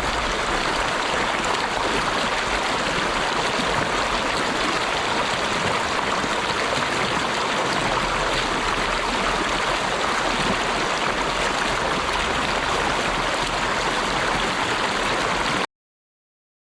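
Running water rushing steadily and evenly, then cutting off abruptly about a second before the end.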